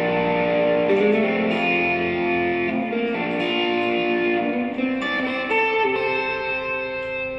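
Electric guitar played through an effects pedalboard: sustained, ringing chords that change every second or two.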